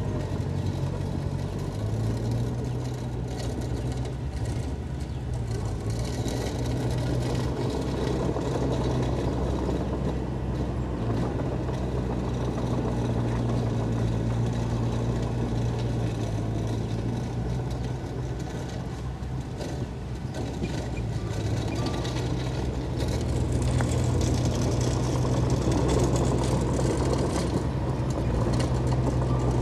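Diesel engines of heavy earthmoving machinery running under load, with a steady low engine hum. The engine note rises and falls, easing off a little past the middle and growing louder near the end.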